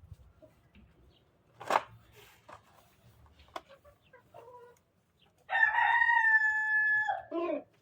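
A rooster crows once near the end: one long held call that drops in pitch as it finishes. Before it come a sharp click about two seconds in and a few scattered small clicks and short calls.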